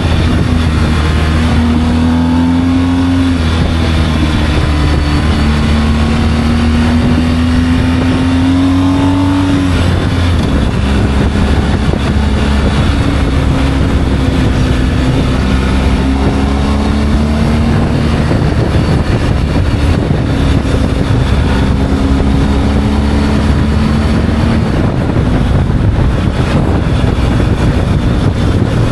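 Motorcycle engine running on the road. Its pitch climbs and drops back at each gear change, twice in the first ten seconds, then holds steadier with smaller shifts, over a steady rushing noise.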